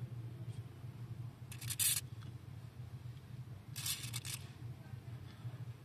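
Two short hissing sprays of a WD-40 aerosol can, about two seconds apart, lubricating dry steering parts to cure a squeak when turning. A steady low hum runs underneath.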